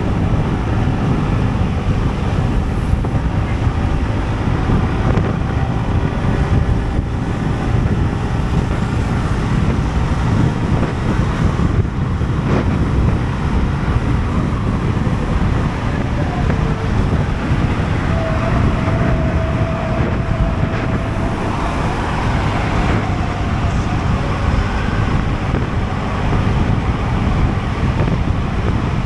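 Wind rushing over the action camera's microphone while riding, over the steady running of a Sym Jet X 125 scooter's single-cylinder engine, with road traffic around.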